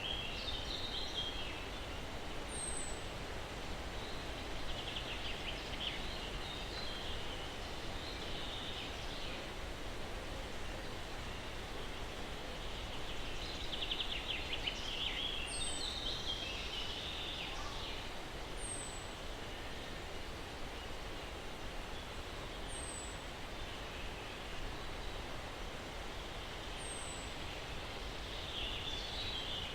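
Steady breeze through pine trees with birds chirping: bursts of trilled chirps come and go, and a thin, high, falling note repeats every few seconds.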